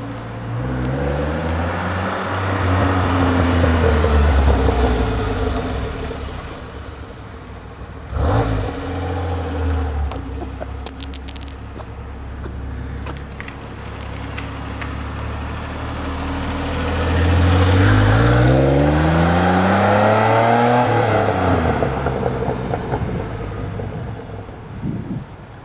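A 1981 DeLorean's 2.85-litre PRV V6 running through a Flowmaster Series 80 muffler while driving. Its exhaust note rises in pitch as it accelerates over the first few seconds, then eases off, and rises again more strongly from about seventeen seconds in before falling away as it decelerates. There is a sharp thump about eight seconds in and a brief clatter a few seconds later.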